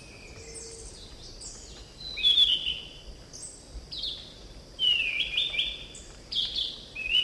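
Orange-banded thrush (anis cendana) singing: a string of short, varied whistled phrases a second or two apart, the loudest about two seconds in and again about five seconds in.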